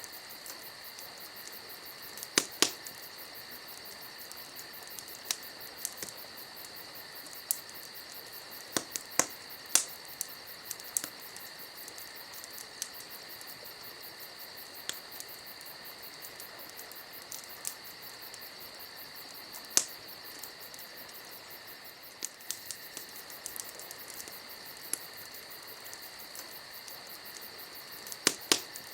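Wood campfire crackling, with scattered sharp pops a few seconds apart, the loudest clusters about 2 seconds in, near 10 seconds, around 20 seconds and near the end. Behind it, a steady high insect chirring, like crickets, continues throughout.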